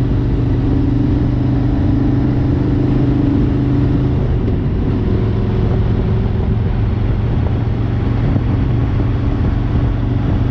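Harley-Davidson Road King's V-twin engine running steadily at highway cruising speed, with wind rush on the microphone. The engine note shifts a little about four seconds in.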